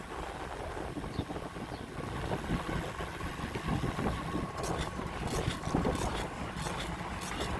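Wind buffeting the microphone with a low road rumble while riding a bicycle, and a run of sharp clicks or rattles from about halfway through.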